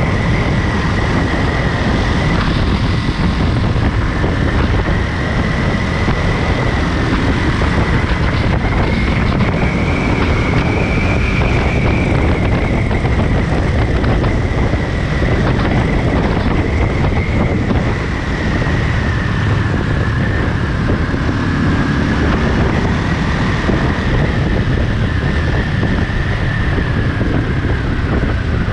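Ducati Monster 937's L-twin engine running at a steady cruise, mixed with heavy wind rush on the microphone. A steady high whine runs over it, drifting slightly up in pitch about a third of the way in and easing back down.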